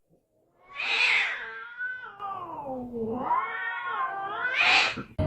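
A cat's long drawn-out yowl lasting about four seconds, falling in pitch and then rising again near the end.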